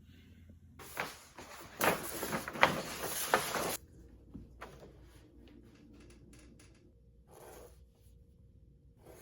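Handling noise: about a second in, roughly three seconds of rustling and scraping with a few sharp knocks that stops abruptly, then a run of light clicks and a short rustle near the end.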